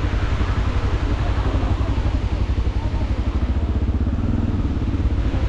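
Motorcycle engine running at low speed, a steady low rumble with an even, rapid firing pulse.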